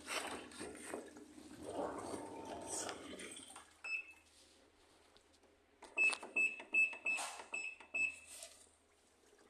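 Washing machine control-panel buttons being pressed, each press giving a click and a short high beep: one beep about four seconds in, then a quick run of about seven in two seconds. Before that, a rustling, watery noise.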